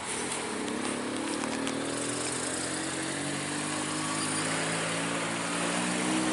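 Heavy truck's diesel engine pulling under load up a steep climb, its note rising slowly and steadily as it gains revs.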